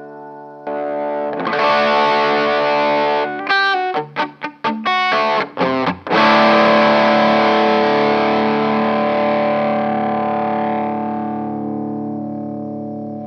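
A 1997 Epiphone Les Paul Custom electric guitar played with distortion through an amp: a chord rings out, then a run of short choppy muted chords, then a big chord struck about six seconds in that sustains and slowly fades.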